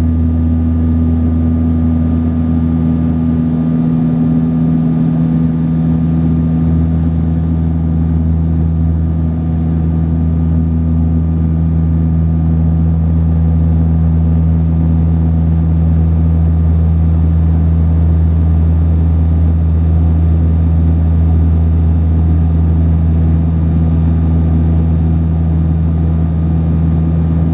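Cabin sound of a Saab 340B's twin General Electric CT7 turboprops, a steady, loud propeller drone with a deep hum and strong low tones that hold an even pitch.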